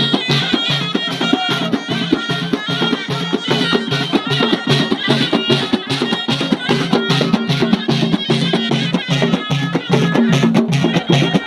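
Ghaita, the double-reed folk shawm, playing a sustained nasal melody over a steady drum beat in traditional folk music.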